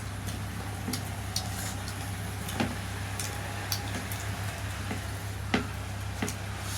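Eating sounds: scattered wet clicks of chewing and lip smacking, about six in all, the loudest about five and a half seconds in, over a steady low hum.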